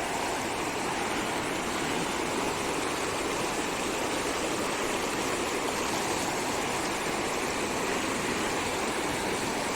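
Water rushing steadily down a seasonal stream swollen by heavy rain, a constant even rush with no break.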